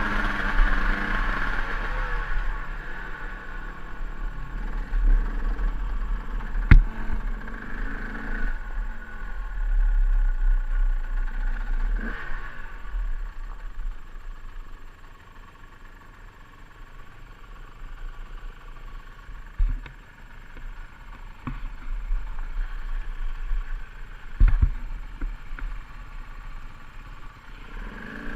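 KTM EXC 200 two-stroke dirt bike engine running at low revs on a steep trail descent, quieter in the second half. A few sharp knocks come from the bike going over rough ground.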